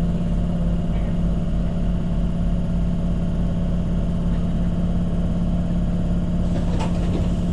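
Tyne & Wear Metro train giving a steady electric hum over a low rumble, with a short clatter of clicks near the end.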